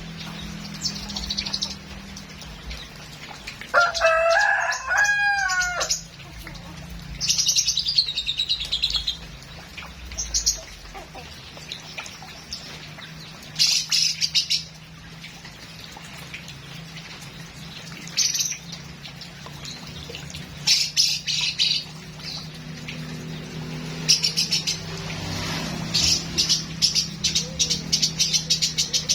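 Lovebird chirping in short high bursts, building near the end into a fast run of repeated chirps. A rooster crows once about four seconds in, and a steady low hum runs underneath.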